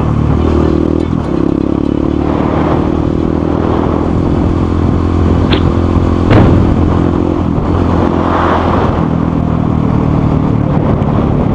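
Motorcycle engine running steadily while riding, its pitch holding nearly level, with a sharp knock a little past halfway.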